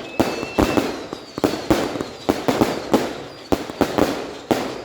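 Fireworks going off: a rapid, irregular run of sharp bangs, two or three a second, each trailing off in an echo, with a faint whistle that stops within the first second.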